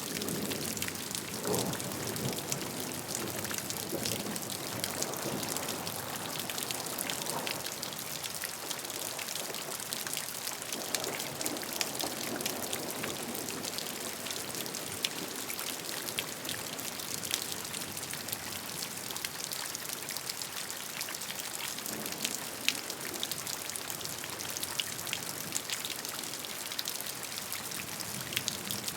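Steady rain with individual raindrops ticking sharply over a constant hiss.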